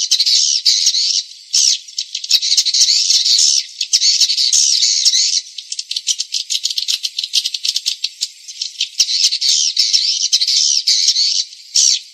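Swiftlet lure call recording: dense, high-pitched twittering chirps of swiftlets, broken by stretches of rapid clicking, the sound played to draw swiftlets into a nesting house.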